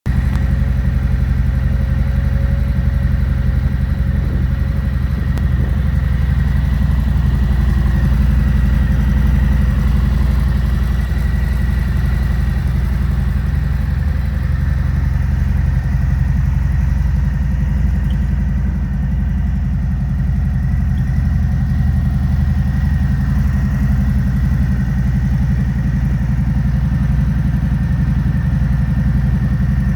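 Harley-Davidson Fat Bob's V-twin engine idling steadily.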